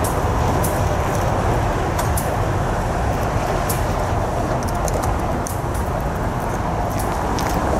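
Diesel-hauled freight train rolling along the track: a steady rumble of the locomotive and the wheels on the rails, with scattered short high-pitched ticks from the wheels.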